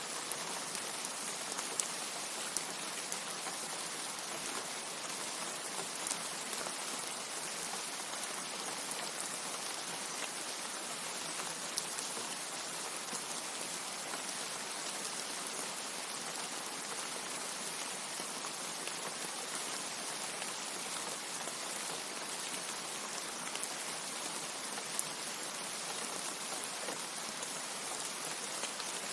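Steady heavy rain falling, an even hiss with scattered sharper drop ticks.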